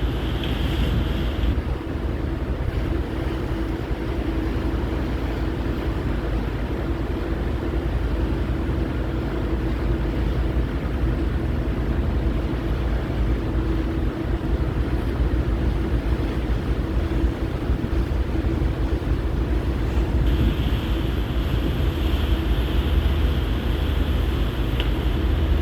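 Steady drone of heavy marine diesel machinery with a constant low hum, and wind buffeting the microphone. A brighter hiss grows in about twenty seconds in.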